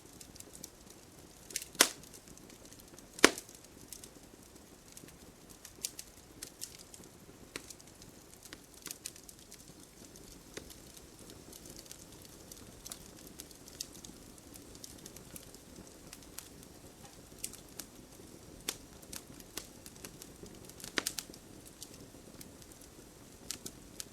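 Campfire burning and crackling: irregular sharp pops and snaps over a soft steady hiss, with two loud pops about two and three seconds in and a burst of pops near the end.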